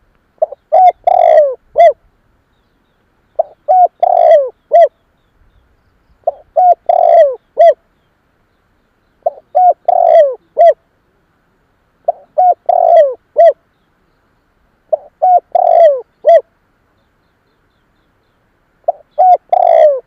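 Spotted dove cooing. It repeats the same phrase seven times, about every three seconds. Each phrase is a couple of short coos, a longer falling coo, and a short clipped final note.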